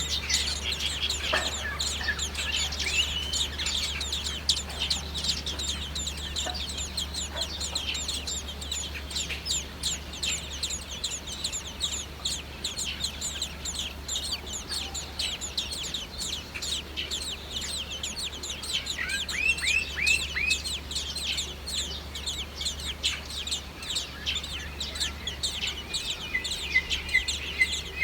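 Young birds chirping many times a second in a dense, continuous chorus of high, short calls, with a brief run of about five lower, curving calls about two-thirds of the way through.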